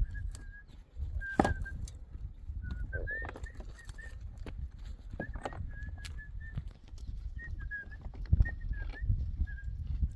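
Small bird chirping in short high notes, repeated on and off at one pitch, over a steady low rumble, with a couple of sharp knocks.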